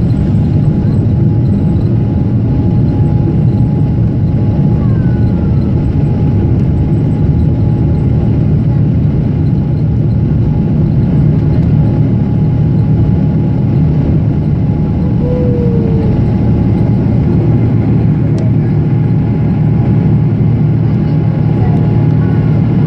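Boeing 777-300ER's GE90 jet engines and airflow heard inside the passenger cabin: a loud, steady, low-pitched rumble with a faint constant tone above it.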